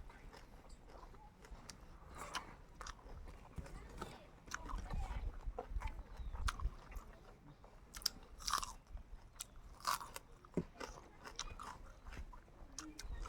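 Chewing and biting into cooked chicken: irregular wet smacks and small crunches, a few of them sharper clicks.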